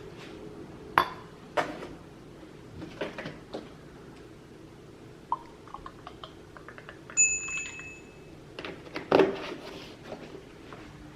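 Kitchen clatter of dishes and utensils being handled: scattered knocks and clinks, one of which rings on briefly about seven seconds in.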